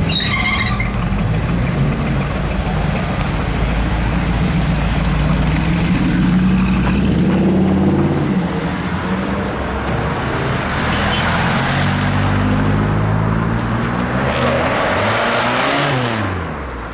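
Engines of vehicles running and driving by, one tone after another shifting in pitch. Near the end one engine's pitch rises and then falls away.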